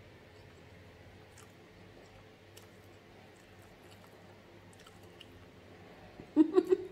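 Quiet chewing and faint mouth clicks from someone eating rice and sauce with a fork, with a few short, louder mouth sounds near the end.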